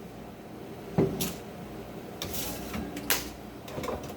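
Knocks and clatter of food containers being handled and set down while a refrigerator is emptied, a few sharp bumps with a brief rustle in between.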